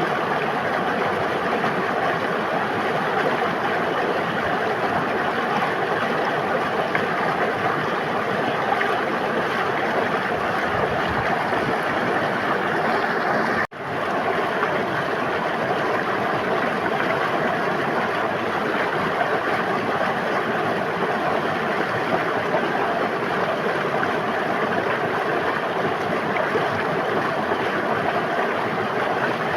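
River water rushing and babbling in a steady stream. About halfway through, the sound cuts out for an instant and quickly fades back in.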